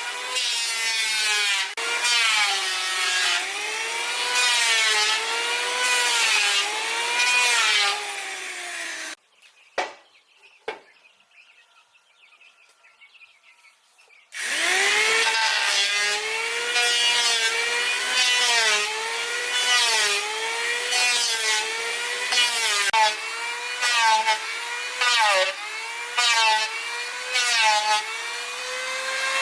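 Hand saw cutting through wood in back-and-forth strokes, about one a second, the blade giving a pitched whine that rises and falls with each stroke. The sawing stops for about five seconds near the middle, with a couple of light knocks, then resumes with quicker strokes.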